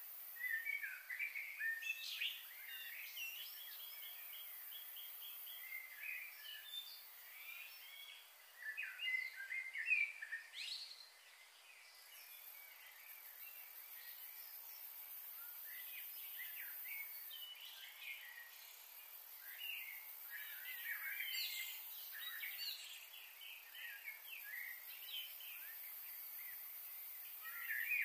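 Birds chirping and calling on and off, some in quick runs of notes, over a steady high hiss.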